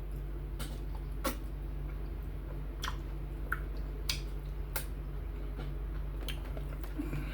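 A person eating okra soup with fufu: chewing with wet mouth clicks and smacks scattered through, over a steady low hum.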